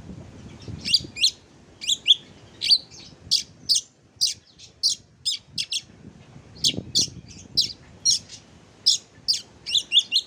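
Oriental magpie-robin (kacer) song: a rapid string of short, sharp chirps and whistled notes, two to three a second, with a brief pause about four seconds in.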